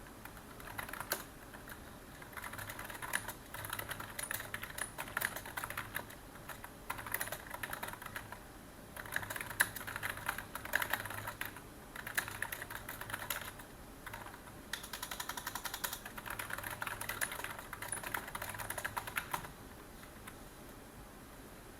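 Typing on a computer keyboard: runs of quick keystrokes broken by short pauses, trailing off near the end.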